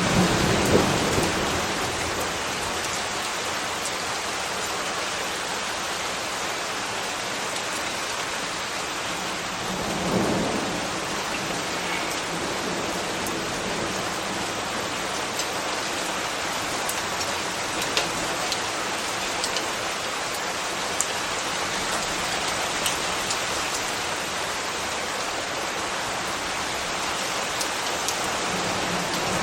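Steady rain falling, a dense even hiss with scattered drip ticks. Two brief low rumbles break through, one at the start and one about ten seconds in.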